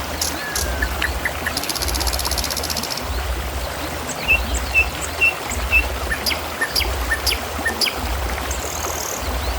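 Water trickling and flowing steadily, with small birds chirping over it: a short buzzy trill about two seconds in, then a run of short chirps and ticks through the middle. A low pulse repeats about once a second underneath.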